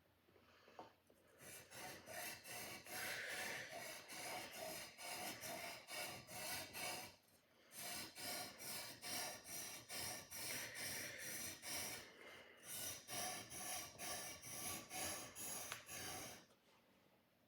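A sword blade being sharpened: quick back-and-forth strokes, about three a second, with two short pauses, one about halfway through and one about three quarters through.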